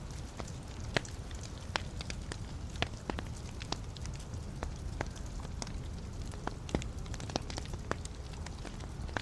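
Wood fire burning in a fireplace with a steady low rush of flame and frequent irregular crackles and snaps from the burning logs, a few of them sharper than the rest.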